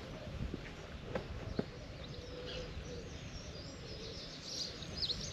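Birds singing and chirping over a steady low outdoor rumble, the calls louder near the end, with a couple of footstep knocks about a second in.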